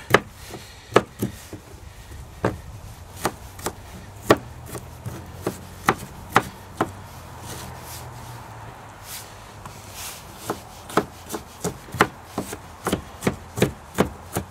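Knife chopping a red onion on a cutting board: irregular sharp knocks, sparse with a pause of a few seconds in the middle, then a quicker run of about two to three chops a second near the end.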